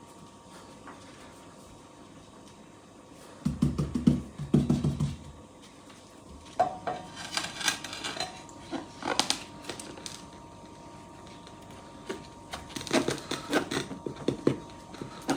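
Clattering and knocking of hard objects being handled, in bunches of quick strikes a few seconds in, again in the middle and near the end, over a faint steady hum.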